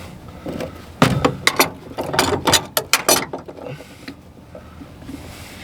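Channel-lock pliers working a plastic fuel filter bowl loose: a quick run of about a dozen sharp clicks and rattles over two seconds, starting about a second in, then quieter handling.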